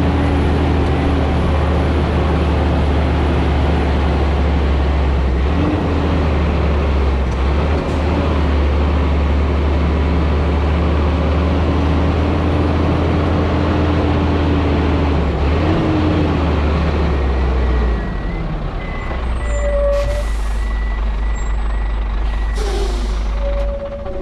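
The Scania G440 truck's engine running with a steady, loud drone while hauling a loaded tanker of about 110 tonnes downhill. About three quarters of the way in, the drone drops off. Then come two short hisses of released air and a run of short beeps.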